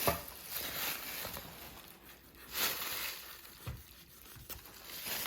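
Carving knife cutting and scraping through the skin and fat of a cured Serrano ham, with soft scraping and a few light knocks.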